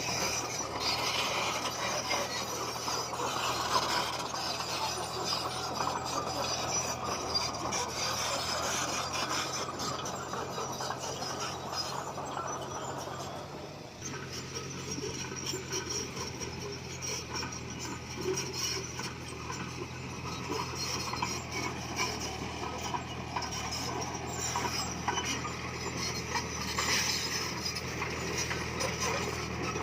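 Komatsu D20P bulldozer working: its diesel engine runs steadily under a continuous grinding, clinking rattle of steel tracks and scraped stone. The grinding eases off a little about halfway through.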